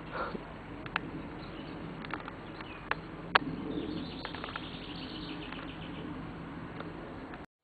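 Small wild birds chirping, with a quick run of short chirps about four to six seconds in. A few sharp clicks cut through, the loudest about three and a half seconds in.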